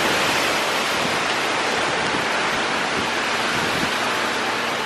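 Strong gale-force wind blowing during a windstorm, a loud, steady, even rush of noise.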